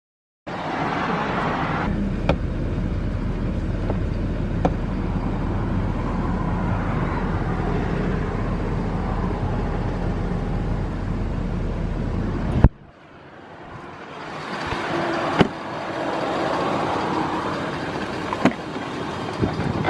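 Pickup truck's engine idling steadily, heard from inside the cab, until the sound cuts off abruptly about two-thirds through. A quieter hum then builds again, with a few sharp clicks.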